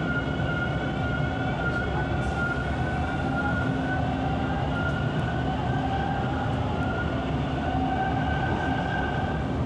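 TTC subway train running between stations, heard from inside the car: a steady rumble of wheels on rails with a high motor whine that holds a near-constant pitch.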